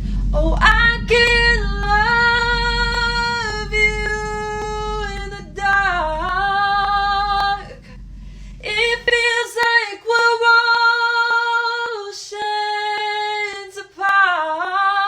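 A woman singing long, high held notes, with a brief dip in pitch twice, over a low rumble that stops about nine seconds in.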